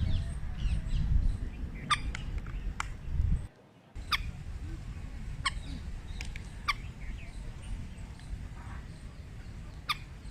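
Short high bird chirps over a low outdoor rumble, with a handful of sharp clicks scattered through. The sound drops out briefly about three and a half seconds in.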